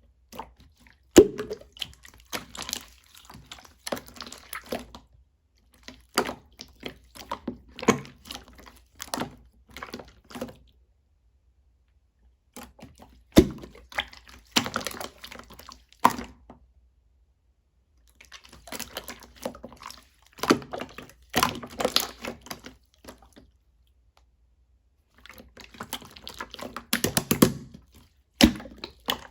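Slime being squished and poked by hand, with wet clicking and popping in four bouts a few seconds long, each followed by a short silent pause.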